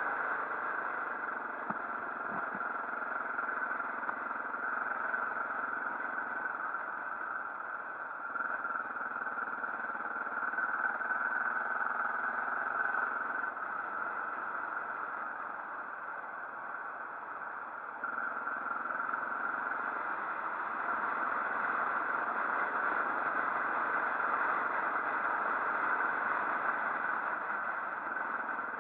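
Motorcycle running on the move: steady engine and wind noise, a little quieter from about 13 seconds in and stepping back up about 18 seconds in.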